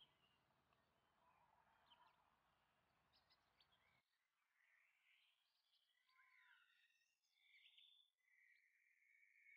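Very faint birds chirping: short rising and falling calls and a held whistle near the end, after a faint hiss in the first few seconds.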